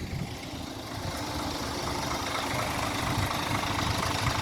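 Scania K450EB coach's Euro 6 Scania six-cylinder diesel engine idling steadily, growing slowly louder.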